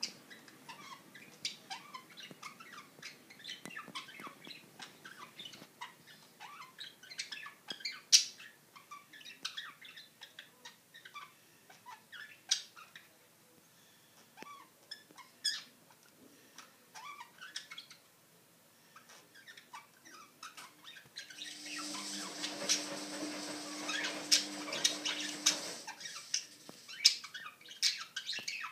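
Pet budgerigars chattering with many short, quick chirps and squeaks. About two-thirds of the way in, a louder steady noise with a low hum runs for about four seconds under the chirping, then stops.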